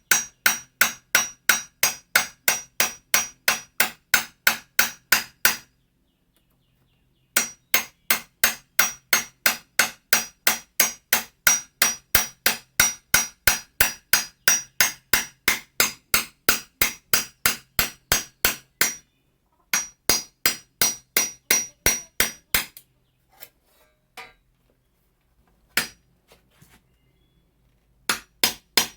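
Hammer peening the steel edge of an Austrian scythe blade: ringing metal-on-metal blows at a steady pace of about three a second, in long runs with short pauses. Near the end there are only a few scattered taps before the steady blows start again.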